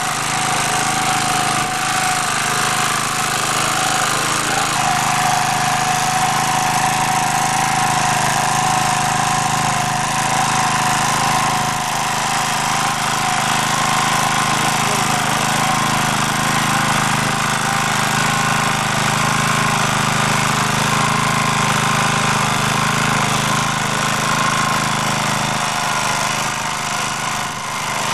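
MD3 walk-behind tractor's small engine running steadily under load as its rotary tiller churns the garden soil in first gear.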